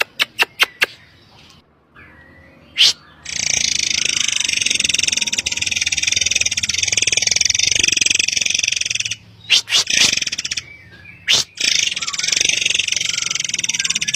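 Forktail (murai air) song: a quick run of four sharp, piercing notes, then long stretches of shrill, high chattering song, broken by a few more sharp single notes about two-thirds of the way through.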